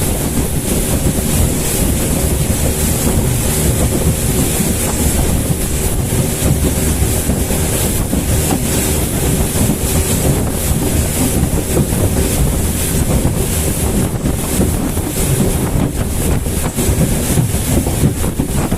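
Motorboat running at speed, its engine a steady drone under heavy wind on the microphone and rushing water.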